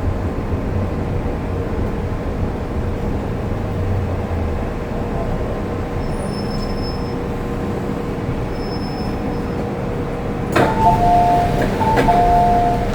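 MTR Kwun Tong Line M-Train running, a steady rumble with faint high squeals. About ten and a half seconds in there is a click, then a two-note electronic chime, high then low, that sounds twice.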